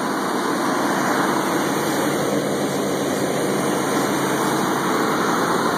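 GMC pickup's 305 small-block V8 idling just after a hard cold start, with loud engine fan noise over a steady rush.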